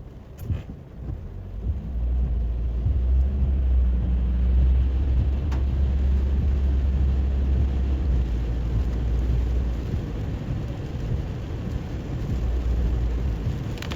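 Rain hissing steadily on a moving car, with a deep low rumble that builds up about two seconds in and eases off near ten seconds.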